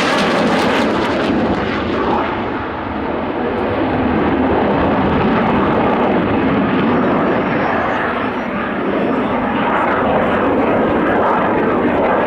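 Military jet aircraft flying past loudly. Its hissing top end fades after about a second and a half, leaving a steady, loud engine noise.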